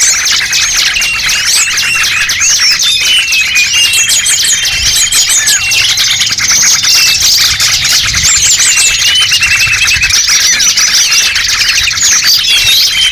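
Dense, loud chorus of many small birds chirping and twittering over one another without a break: a bird-lure recording made to draw small wild birds in.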